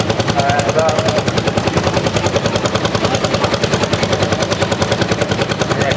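Vintage tractor engine running with a rapid, even exhaust beat.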